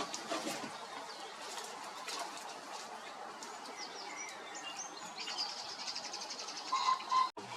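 Small songbirds singing and chirping, with short whistled notes and, in the second half, a fast high trill. The sound breaks off abruptly just before the end.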